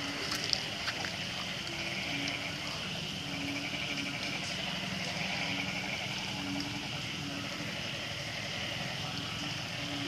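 Heavy rain falling steadily on a flooded street, with a short low tone repeating about once a second.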